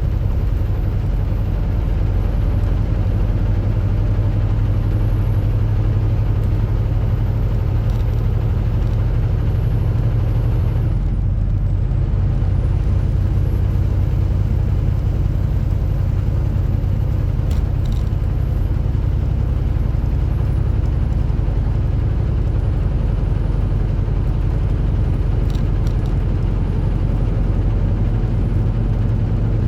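Semi-truck running down the road: a steady low engine and road rumble, with a brief softening of the higher hiss a little before the middle and a few faint ticks.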